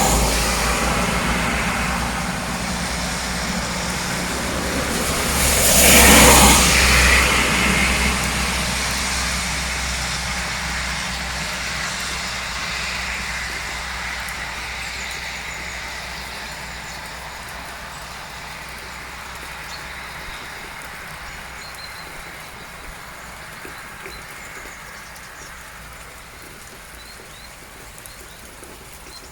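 A road vehicle passes close by, loudest about six seconds in, then its rumble fades slowly away. Steady rain hiss lies underneath.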